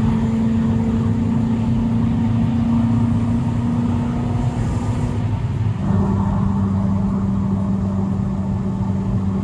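Homemade Ford GT40 replica's V8 engine pulling at high speed, heard from inside the cockpit with wind and road rumble. Its steady note drops to a lower pitch about five and a half seconds in.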